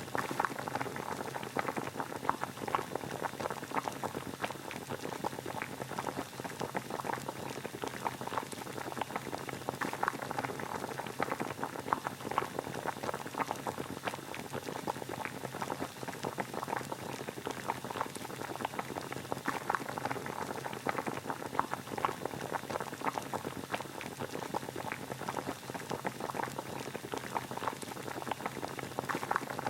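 Water boiling steadily: a continuous, dense bubbling made of many small pops.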